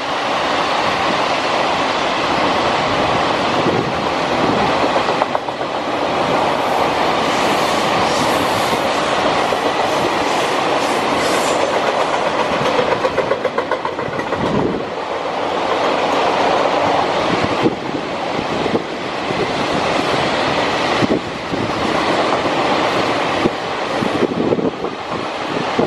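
A freight train's container flatcars and covered hopper wagons rolling past at speed, with a steady rumble and clatter of steel wheels on the rails that dips slightly from time to time.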